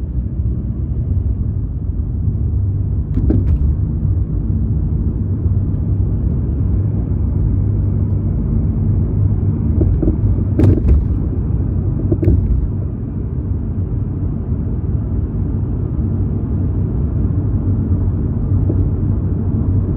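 Steady low rumble of a car's engine and tyres heard from inside the cabin while driving on a snowy road on winter tyres, with a few brief knocks about three, eleven and twelve seconds in.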